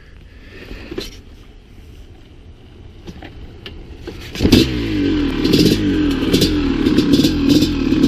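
Maico 700 single-cylinder two-stroke dirt bike engine running quietly at low revs, then about four and a half seconds in it opens up loudly, revving up and down under acceleration, with repeated sharp clatters over it.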